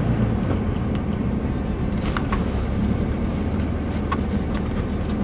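Car driving slowly, heard from inside the cabin: a steady low engine and road rumble, with a few short faint clicks.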